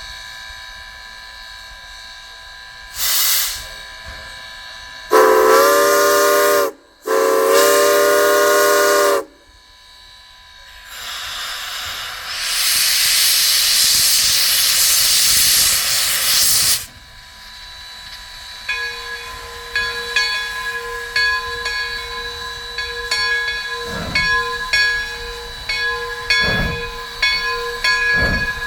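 Steam locomotive departing: a short whistle toot, then two long whistle blasts, the signal to release brakes and proceed. A loud steady hiss of steam follows as the cylinder cocks are blown out. The bell then rings steadily while the first slow exhaust chuffs begin.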